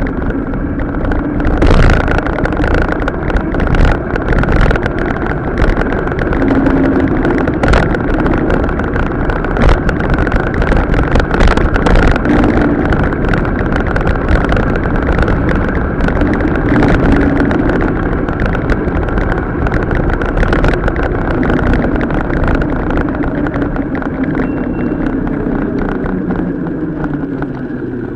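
Mountain bike riding over a rough off-road track, sped up several times: a dense run of rattles and knocks from the bike and tyres over a steady rush of wind and tyre noise, with a wavering hum under it.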